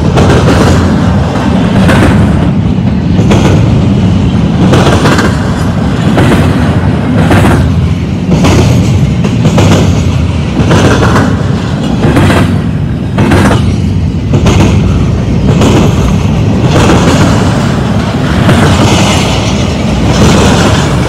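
Double-stack intermodal well cars rolling past at close range: a steady low rumble of steel wheels on rail, with repeated sharp clacks as the wheel sets cross a bolted rail joint.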